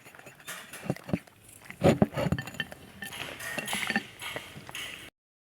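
A dog eating close to the microphone: irregular chewing and crunching with a few clinks from its dish, loudest about two seconds in. The sound cuts off abruptly near the end.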